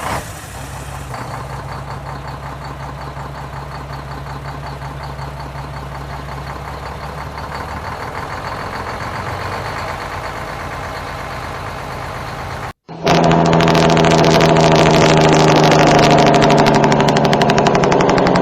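Heavy diesel truck engine (Cummins) idling steadily. About thirteen seconds in, after a brief break, a much louder, rapid pulsing engine-brake (jake brake) blat with a steady pitch.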